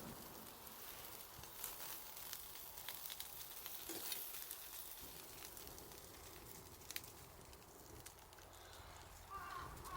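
Food sizzling faintly on a grill over a wood campfire, with scattered sharp crackles and pops.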